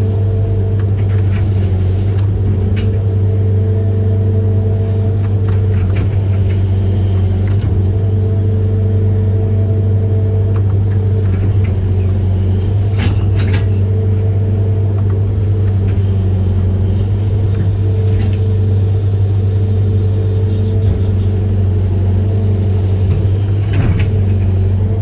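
Amphibious excavator's diesel engine running steadily at constant pitch, with a few sharp knocks and clanks, the clearest about halfway through and another near the end.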